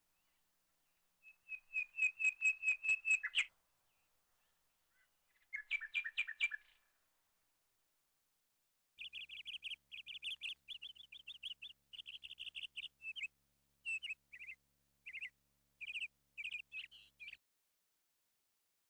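A bird calling in rapid series of high, repeated chirps, about five a second, in three bouts. The last bout is the longest and runs for about eight seconds.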